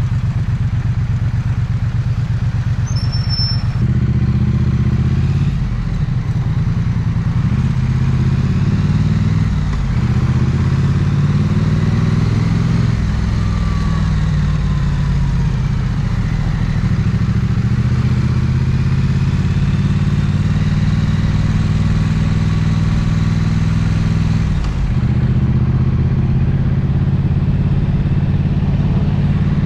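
Triumph 900cc parallel-twin motorcycle engine idling for the first few seconds, then pulling away and running at low, fairly steady revs in city traffic. Its pitch rises and falls a few times as it changes speed, and the revs drop near the end before it settles again.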